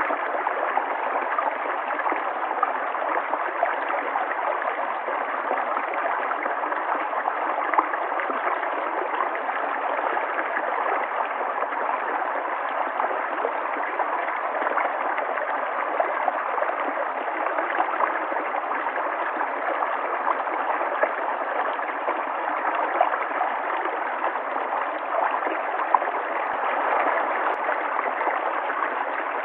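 River water flowing and gurgling steadily over rocks, an even rushing with small splashes flickering through it.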